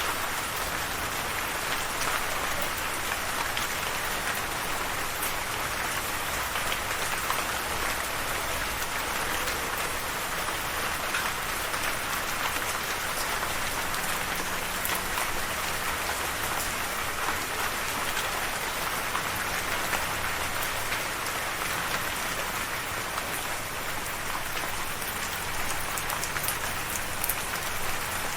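Steady rain falling, a dense even hiss with many fine drop patters on a surface.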